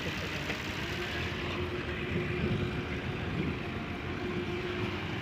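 Tractor engine running steadily, a continuous mechanical hum.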